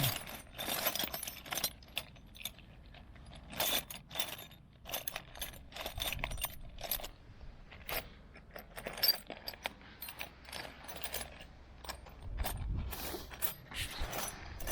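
Irregular metallic clinks and taps of hand tools on small steel parts, from improvising a new impeller key for an outboard motor's water pump without a hammer.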